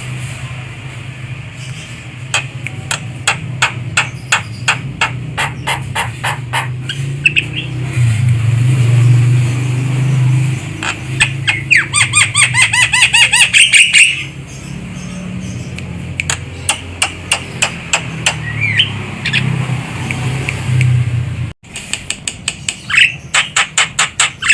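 Javan myna (jalak kebo) calling: runs of rapid harsh clicking notes, with a dense burst of chattering and whistled notes around the middle, over a steady low hum. The sound cuts out for an instant near the end.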